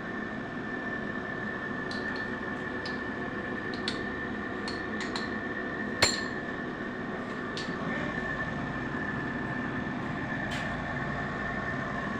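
Light metallic clinks of hand tools and parts, scattered and irregular, with one sharper clink about six seconds in, over a steady workshop hum with a constant high whine.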